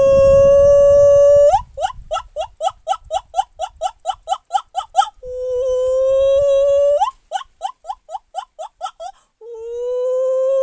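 A person imitating an animal call with their voice. Three times over, a long held note rises at its end and breaks into a quick run of short rising yelps, about six a second.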